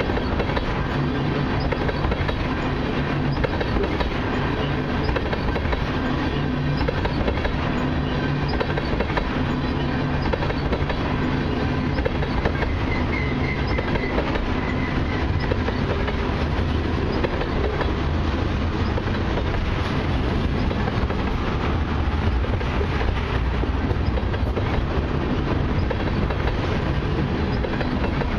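Long train of loaded crude-oil tank cars rolling steadily past, steel wheels rumbling and clicking on the rails.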